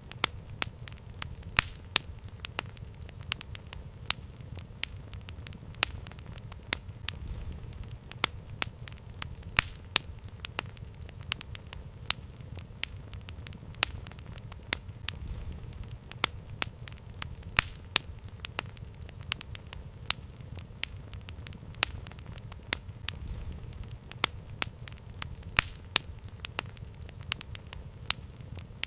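Campfire crackling: irregular sharp pops, several a second, over a low steady rumble of the burning fire.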